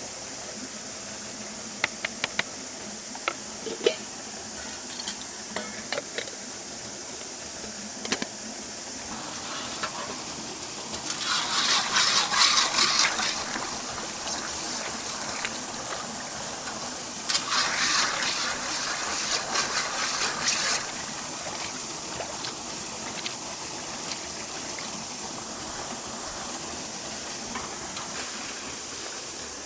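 Camp cooking sounds: a scatter of light clicks and clinks of cookware, then two louder noisy stretches of about two and three seconds, over a steady background hiss.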